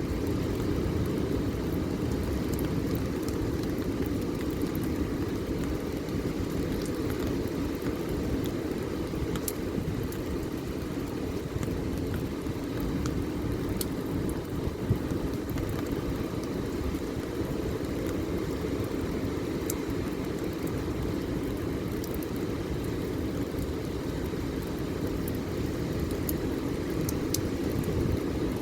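A steady, even low rumbling noise, with a few faint scattered ticks.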